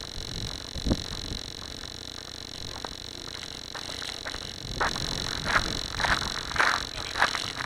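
Wind noise and rattling on a glider's wing-mounted camera, with a steady high whine. From about five seconds in comes a run of sharp knocks and rattles.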